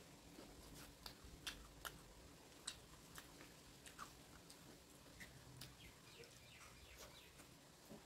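A person chewing food close to the microphone, with scattered short wet clicks, one or two a second, over a faint background.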